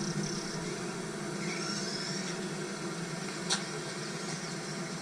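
Steady low hum of a car running, heard from inside the car, with a single sharp click about three and a half seconds in.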